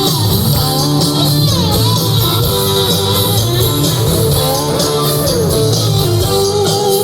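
Rock band playing, with an electric guitar lead of bending notes over bass and drums.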